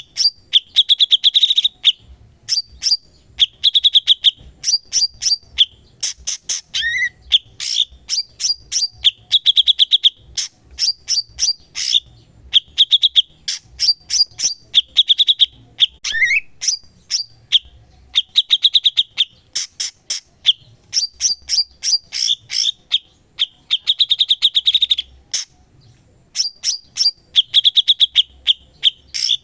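Cucak cungkok (grey-cheeked bulbul) singing hard and without pause: fast chattering phrases of sharp, trilled notes, each about a second long and repeated one after another.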